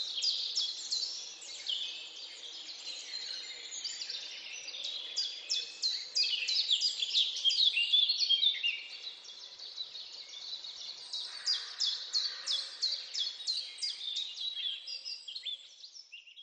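A chorus of small birds chirping, many short, high, falling chirps in quick succession, fading lower near the end.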